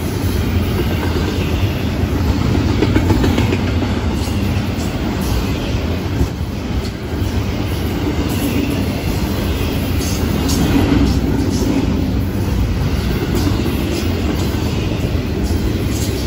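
Double-stack intermodal freight cars rolling past at close range: a steady, loud low rumble of steel wheels on the rails, with scattered sharp clicks and clanks from the wheels and trucks.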